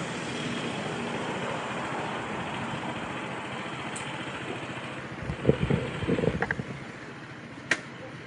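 Steady road and traffic noise from a ride on a motorcycle through town traffic. A run of loud low thuds comes at about five to six and a half seconds in, and a single sharp click near the end.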